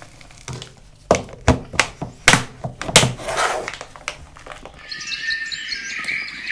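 A quick run of knocks and clatters from camp cooking gear being handled, then birds singing from about five seconds in.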